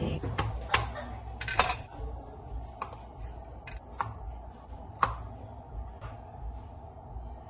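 Scattered light clicks and clinks of small hard objects being handled, about eight at irregular intervals, over a low steady hum.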